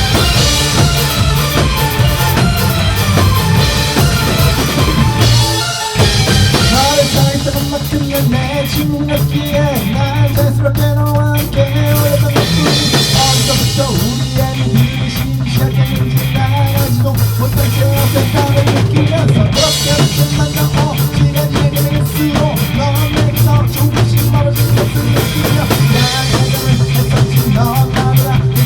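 Live rock band playing an instrumental passage of an electronic rock arrangement: a drum kit beating steadily over a held bass line, with a brief break about six seconds in.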